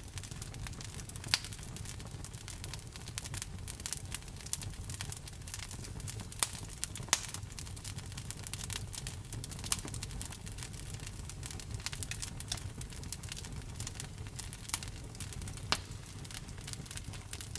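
Wood fire burning, with dense irregular crackling and a few louder sharp pops over a low steady rumble.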